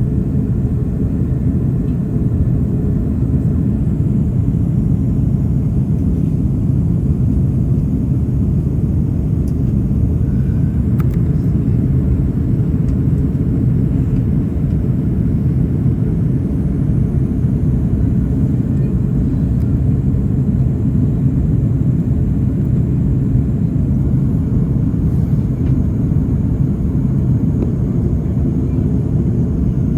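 Airliner cabin noise during descent: a steady, low rumble of engines and airflow heard from inside the cabin.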